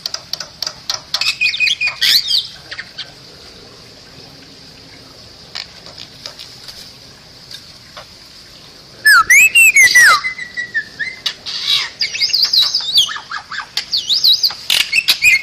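Bali myna calling. Clicks and short chirps come first, then a lull of about five seconds. From about nine seconds in there is a loud run of sweeping whistles and harsh squawks.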